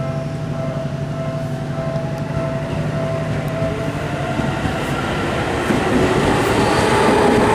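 Seibu electric commuter train running on the rails, with steady motor tones that fade about halfway through. Then wheel-on-rail clatter and new tones build, getting louder toward the end as a train draws closer.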